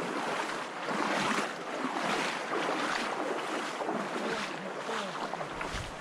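Steady rushing of water over river rapids.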